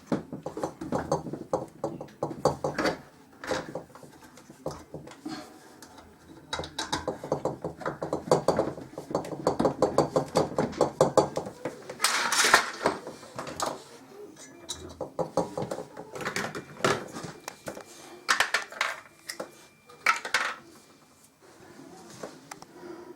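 Metal hand tools and parts clinking and clattering during work, with a fast run of even clicks in the middle and a louder clatter just after.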